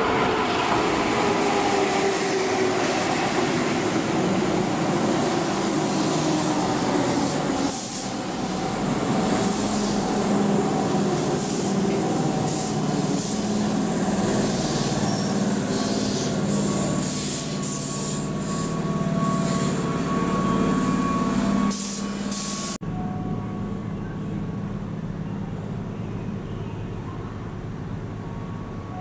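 Keihan electric commuter trains running through a station. A train's motor tone falls in pitch as it comes in, and later a train's motor tone rises as it pulls away. After an abrupt cut about three-quarters of the way in, a quieter steady hum remains.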